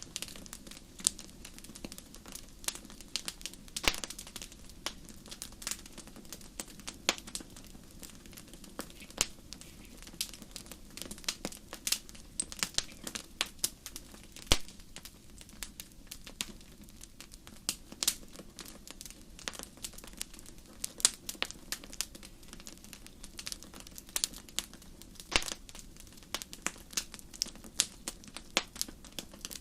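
Fire burning in a fireplace, crackling with irregular sharp pops and snaps over a steady low background.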